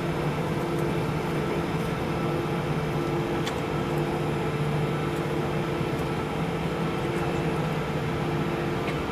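Airliner engines running steadily, heard from inside the passenger cabin as a constant rushing noise with a low, even hum.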